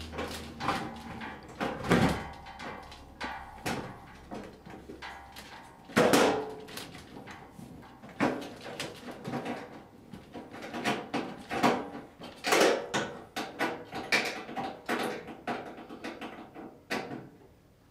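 Irregular knocking, clicking and scraping as a wired tombstone-holder bar is worked into a fluorescent light fixture's sheet-metal housing. The loudest knocks come about two and six seconds in.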